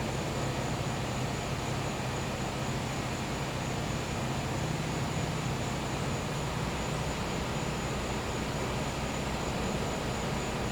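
Gas-powered generator giving off a steady, noisy hum, with a thin, constant high-pitched insect chorus above it.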